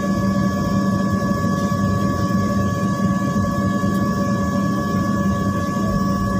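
Steady airliner cabin noise on the ground before takeoff: a constant low hum with a couple of thin higher tones over a rumble, its level holding even.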